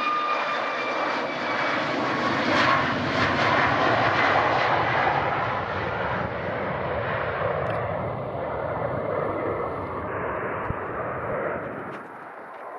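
Passenger airplane's engines roaring as it passes close by. The sound swells to its loudest a few seconds in, then slowly fades away.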